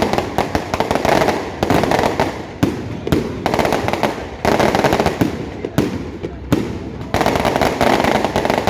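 Fireworks going off in a continuous barrage: dense crackling broken by a sharp bang every second or so.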